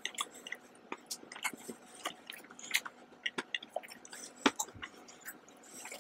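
Close-miked chewing of a mouthful of chocolate sweets with lips closed: irregular small wet clicks and smacks, with one sharper click a little past the middle.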